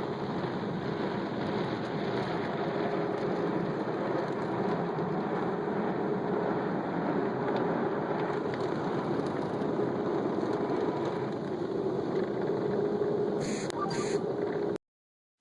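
Automatic car wash machinery running: a steady rushing noise with a steady hum, two short hisses near the end, then the sound cuts off abruptly.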